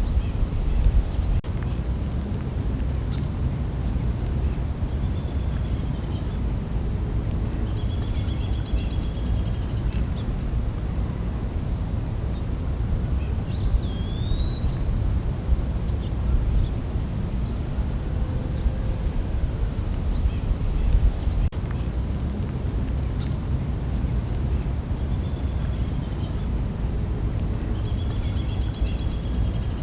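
Night forest ambience: a steady high insect drone with crickets chirping in quick rhythmic trills. A few bird calls sound over it, about five and eight seconds in, once more near the middle, and again near the end, all above a low rumbling background noise.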